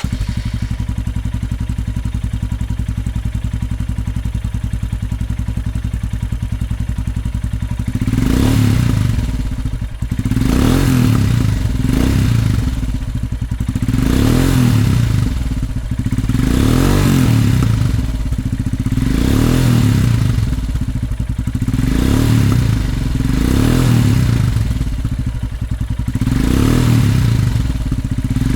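Royal Enfield Himalayan's 411 cc single-cylinder engine through a PoweRage slip-on exhaust with the dB killer removed. It idles steadily, then from about eight seconds in is revved in short throttle blips, one every two to three seconds.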